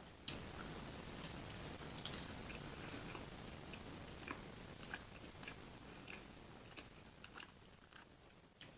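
A person chewing a mouthful of food close to the microphone, with wet mouth clicks and smacks scattered through. A sharp click comes just after the start, and the chewing grows quieter near the end.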